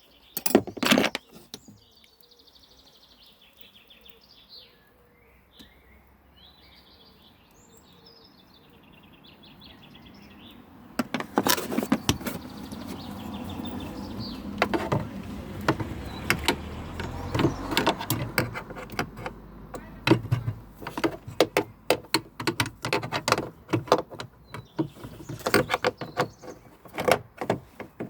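A car door being worked, with a sharp knock about half a second in. From about eleven seconds on comes a fast, uneven run of clicks and knocks over a low rumble. Birds chirp faintly in the first ten seconds.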